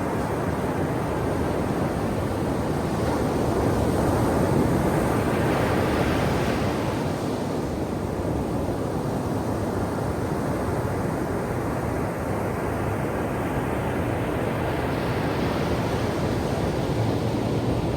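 Ocean surf washing on a shore in a continuous rush that swells twice, once about a third of the way in and again near the end, as waves come in.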